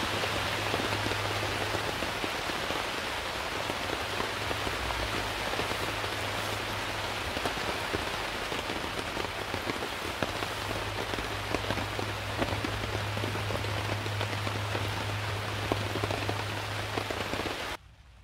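Heavy rain falling steadily, thick with the patter of individual drops close by, over a steady low hum. It cuts off abruptly near the end.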